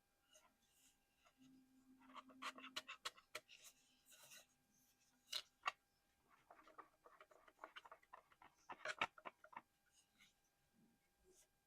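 Fingertips and nails tapping, scratching and handling small plastic collectibles close to the microphone, in two flurries of quick soft taps with a few sharper clicks between and within them.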